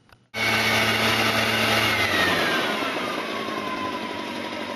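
Gas backpack leaf blower running at high throttle, cutting in suddenly just after the start. From about two seconds in, its fan whine falls steadily in pitch as the engine slows.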